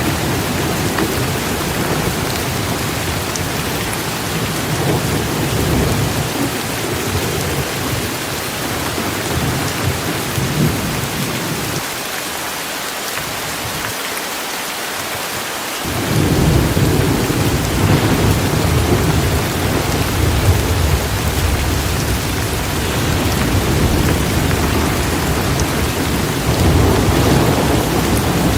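Torrential rain pouring steadily, with rolling thunder rumbling underneath. The rumble eases about twelve seconds in and swells back strongly a few seconds later.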